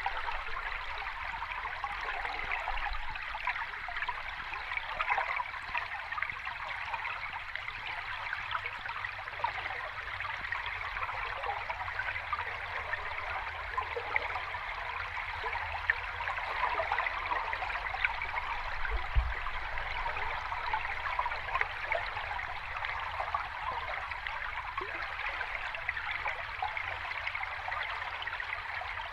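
Small cascade of flowing water running steadily.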